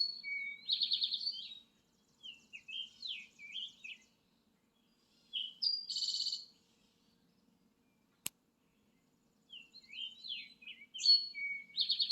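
A songbird singing a run of short phrases, each made of quick notes and buzzy trills, with a fresh bout every few seconds. A single sharp click comes about eight seconds in.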